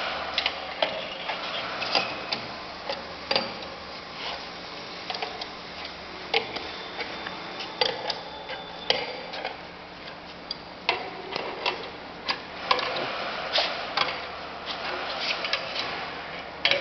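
Irregular sharp metallic clicks and knocks, a few with a brief ring, from hands-on work at a hydraulic butt fusion welding machine, over a faint steady hum.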